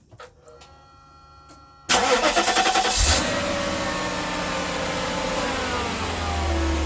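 1997 Mercedes-Benz SL500's V8 engine cold-started: a faint steady tone with the ignition on, then about two seconds in the starter cranks for about a second and the engine catches. It settles into a fast cold idle, its pitch slowly falling.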